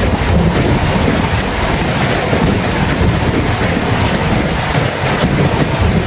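Steady rain falling, with a continuous low rumble underneath and no distinct claps.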